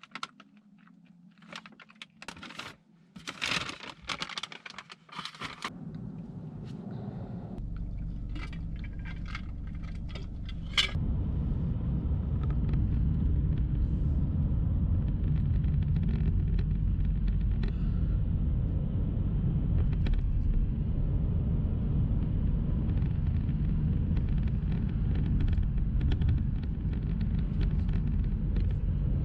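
Scattered clicks and handling noises, then a low rumble that builds and from about eleven seconds becomes a steady, loud vehicle rumble.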